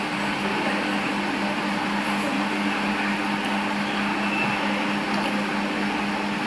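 A steady mechanical hum: a machine or motor running evenly, with a low two-note drone under a constant hiss.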